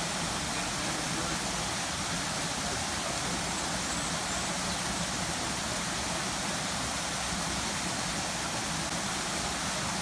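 Wildlife Express Train in motion: an even, unbroken rumble and hiss with no separate knocks or whistles.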